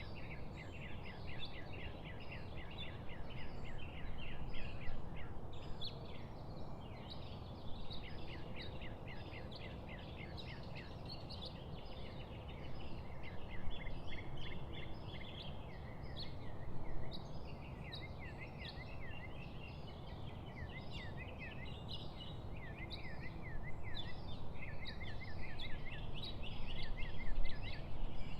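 A flock of parrots chattering, with a dense, unbroken stream of quick, high chirps and short up-and-down notes over steady background noise.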